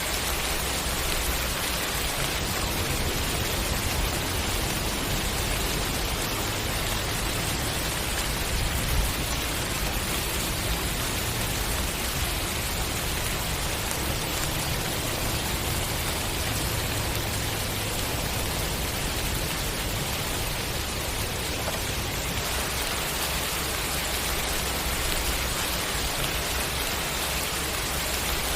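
Steady heavy rain falling on surfaces, an even hiss of drops with a low rumble underneath.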